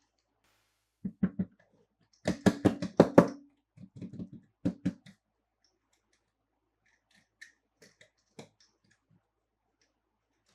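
Toy cars and their plastic packaging being handled, making a run of quick clicks and knocks. The loudest, fastest stretch comes about two to three seconds in, followed by a few faint taps near the end.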